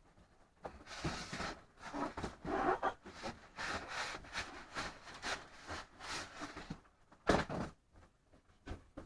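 Packaging and parts of an RC jet kit being handled and rummaged through: irregular rubbing, rustling and scraping, with one louder scrape about seven seconds in.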